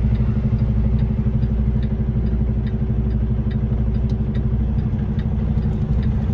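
Semi truck's diesel engine running steadily at low revs, heard from inside the cab, with a light regular ticking a little more than once a second from the turn signal.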